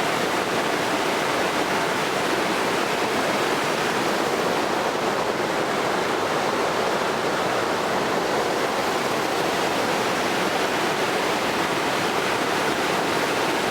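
A waterfall rushing steadily in an even, unbroken roar of water.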